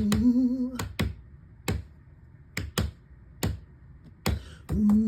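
A sung note ends, then a run of about seven sharp knocks comes at an uneven rhythm, in pairs and singles. A sung note starts again near the end.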